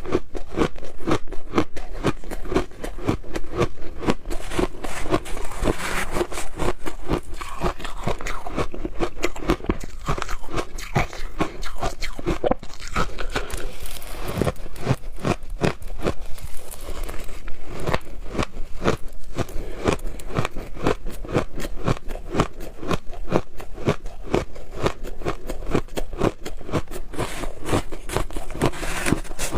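Close-up crunching and chewing of frozen shaved ice in the mouth: a rapid, continuous run of crisp crunches, several a second.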